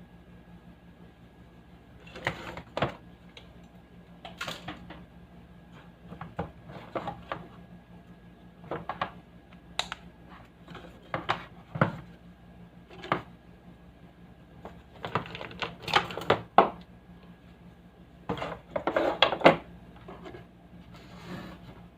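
Irregular clicks, taps and light rattling, like hard objects being handled and set down, coming in clusters over a faint steady low hum.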